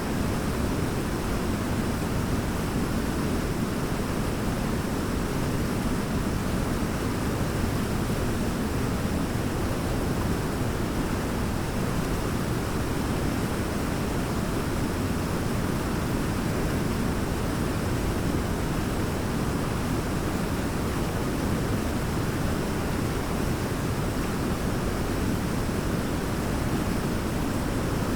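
Large waterfall roaring: a steady, even rush of falling water, heaviest in the low end, with no change in level.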